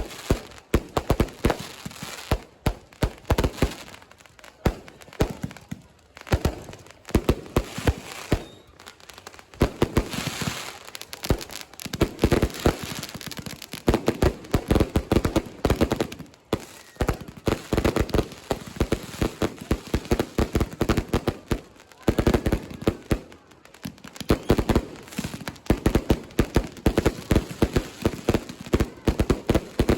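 Massed fireworks and firecrackers going off: rapid, overlapping volleys of sharp bangs and crackles, with brief lulls between bursts.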